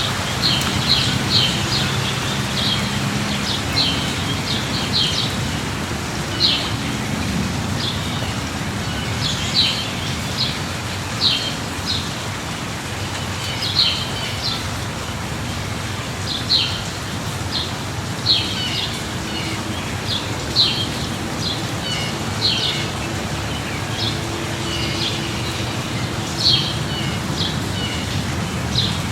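Steady light rain falling, with a bird chirping in short calls every second or two and a faint low hum underneath.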